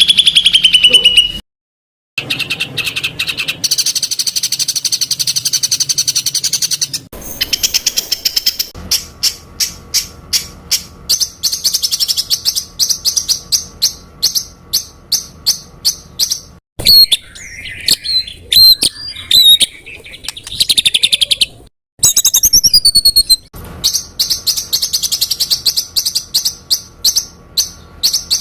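Songbird song edited together as a tutoring (masteran) track: rapid strings of sharp, high repeated notes ('tembakan rapat') alternate with sweeping whistled phrases, and each segment cuts off abruptly before the next begins.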